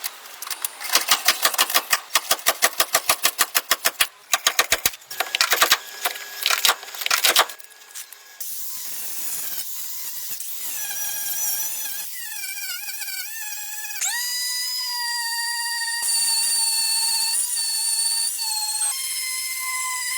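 Power tools at work: a rapid mechanical clatter of repeated sharp strikes, then the high whine of a fast-spinning tool that shifts in pitch as it is loaded.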